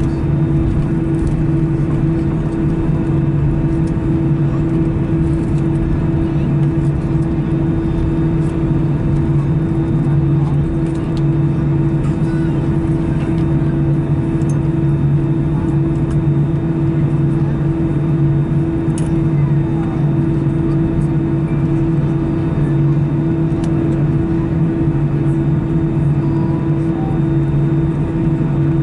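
Steady drone inside the cabin of an Airbus A319 on the ground after landing, engines idling and air conditioning running, with two unchanging low hums.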